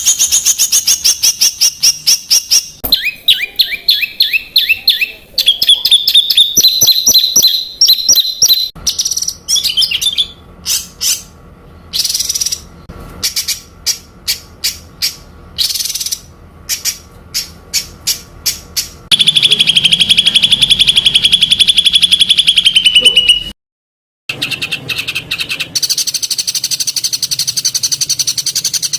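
Spliced recordings of songbirds singing dense, rapid-fire repeated notes and high trills (the 'tembakan rapat' style of song used to train competition birds). The segments change abruptly, with a very brief dead gap about 24 seconds in, and a long unbroken fast trill just before it.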